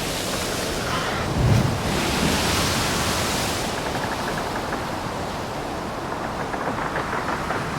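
Wind and sea rushing as a steady hiss, with a brief low surge about a second and a half in.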